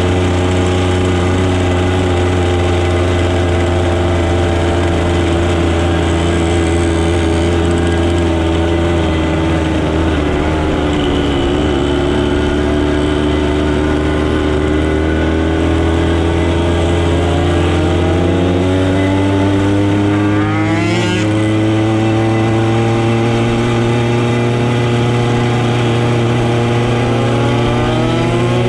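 Motorcycle engine running under way, its pitch sinking slowly then climbing again as the throttle changes, with a quick rev-up about three-quarters through.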